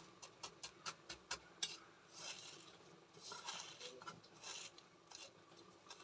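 Faint kitchen-prep handling: a quick run of about eight light clicks of a utensil against a dish, then a few short scraping and rubbing noises.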